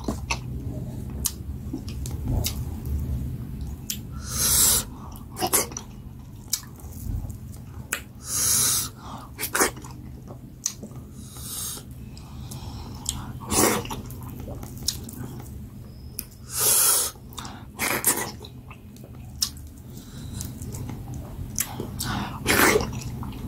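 Close-miked eating of fufu and goat head pepper soup: wet chewing and mouth smacking with many small clicks, and louder half-second mouth noises every few seconds.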